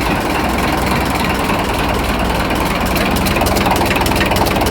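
An engine running steadily at idle, with a fast, even pulse that grows clearer in the second half.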